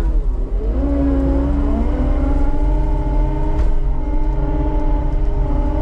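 Diesel engine of a piece of heavy digging equipment working under load. Its pitch drops in the first second as it bogs, climbs back and then holds steady.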